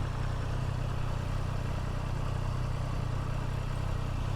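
Motorcycle engine running at a steady pace, a low even drone with an even hiss of road and air noise over it.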